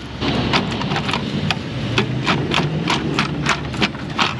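Hand ratchet clicking in short strokes as intake plenum bolts are loosened, a run of sharp clicks a few each second over a steady low shop hum.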